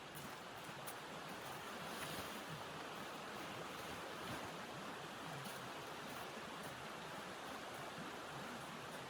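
Steady rushing of blizzard wind, an even hiss without breaks, with faint light ticks over it.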